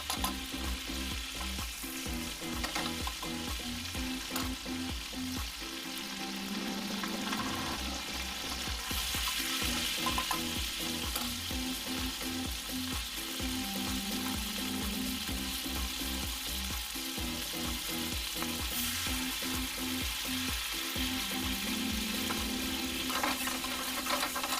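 Food sizzling steadily as it fries, with background music playing underneath.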